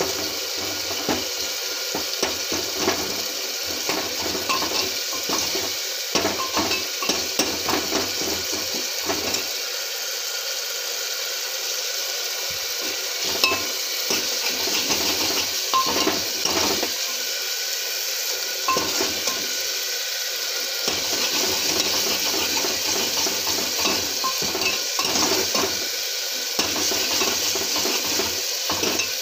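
Chopped capsicum and tomato sizzling as they fry in oil in a pan, while a spoon or spatula stirs them, scraping and clinking against the pan many times.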